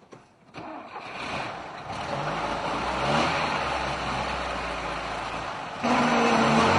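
Street traffic: a motor vehicle's engine accelerating, its pitch rising in steps. About six seconds in, it cuts abruptly to louder traffic with a steady engine hum.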